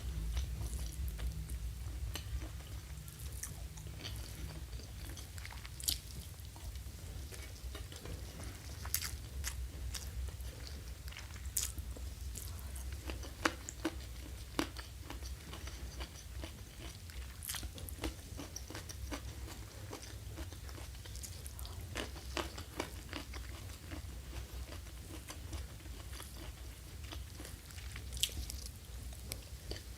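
A person chewing and biting crunchy food close to the microphone, with scattered sharp crunches over a steady low hum.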